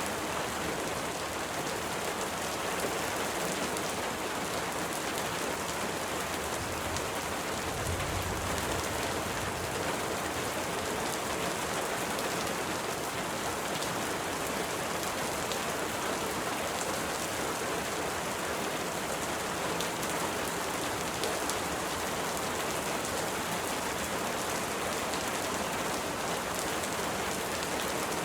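Steady rain falling on a surface: an even hiss with fine drop ticks throughout, and a brief low rumble about eight seconds in.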